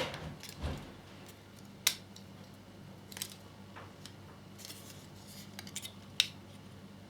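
Small plastic model parts being handled and pressed together: a few short, sharp clicks and taps, the loudest about two seconds in and again about six seconds in, over a faint low hum.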